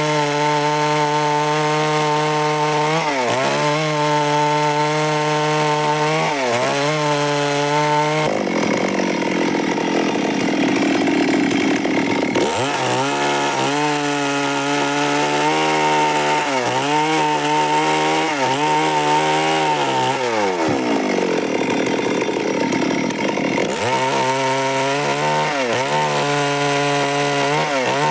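Stihl MS 382 two-stroke chainsaw running at high revs while cutting wood, its pitch dipping briefly over and over. Twice, for a few seconds each, the steady engine note gives way to a rougher noise.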